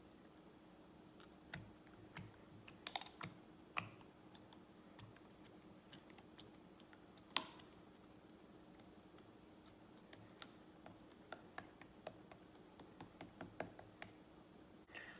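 Homemade slime being squeezed and stretched by hand, giving faint, irregular little clicks and pops, with one sharper pop about seven seconds in.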